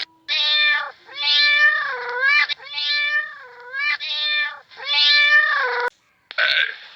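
An animal's repeated pitched calls: about five drawn-out cries, each dipping and rising in pitch, followed near the end by a short rough, noisy call.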